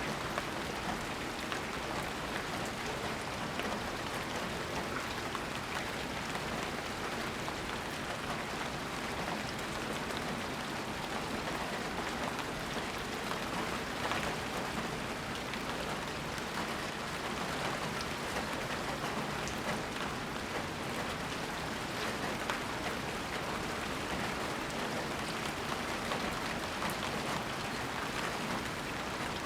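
Steady rainfall, with individual drops pattering on surfaces through an even hiss.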